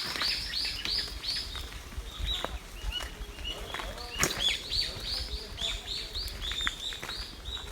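Forest songbirds chirping: a quick, continuous run of short, high, arching notes, with one sharp click a little after four seconds in.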